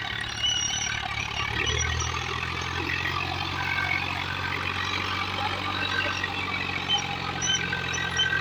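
Tractor diesel engine running steadily, its hum growing louder and deeper about two seconds in as it takes on more power.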